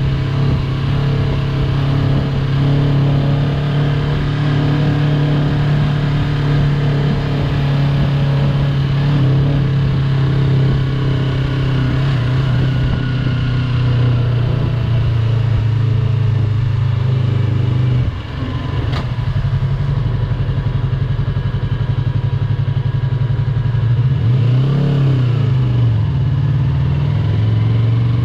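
Yamaha YZF-R3's parallel-twin engine running steadily under way, heard from the rider's position. The revs drop briefly about two-thirds through, then rise and fall again near the end.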